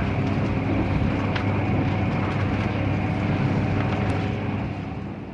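Running noise of a 485-series electric train heard from inside the passenger car: a steady rumble from the wheels and running gear with a few faint ticks, easing off slightly near the end.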